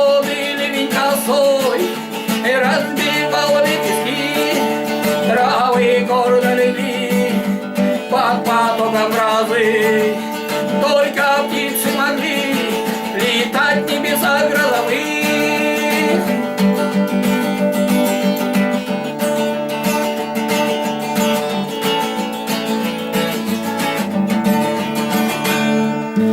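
Music: acoustic guitar strumming in the instrumental ending of a song, with a melody line over it for roughly the first half, then steady accompaniment.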